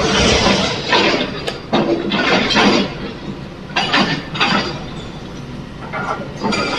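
Excavator bucket tipping quarry stone into a dumper truck's steel body: rock clattering and crashing in about five uneven bursts, with a steady low hum underneath.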